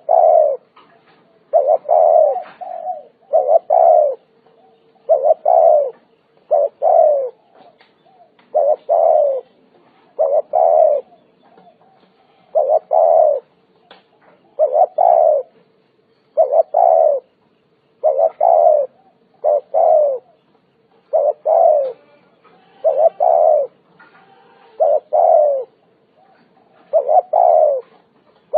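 Spotted dove cooing over and over, short coos grouped in twos and threes, each group about two seconds apart.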